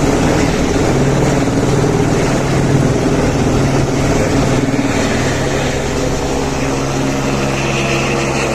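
Helicopter running steadily, a continuous engine and rotor drone with no let-up.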